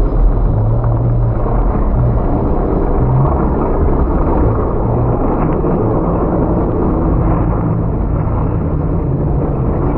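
Hobby-class race trucks' engines running on the track, a loud steady rumble.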